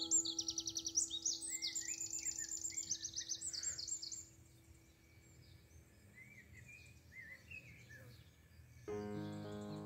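Bird song: a rapid run of high, quickly repeated chirps for the first four seconds, then fainter scattered chirps. Under it sits a soft held note of background music, and the music comes back in fully near the end.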